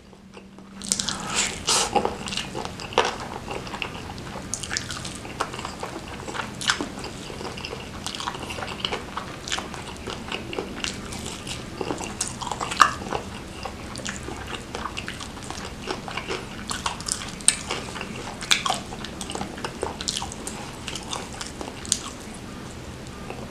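Close-miked mouth sounds of a person eating fried chicken: chewing and lip smacking with many sharp wet clicks, starting about a second in.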